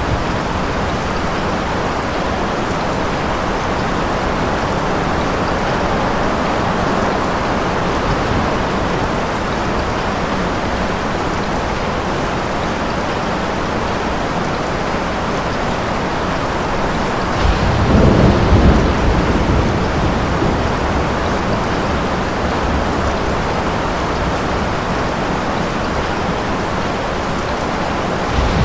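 Steady heavy rain falling, with a roll of thunder rumbling up a little over halfway through and fading after a few seconds.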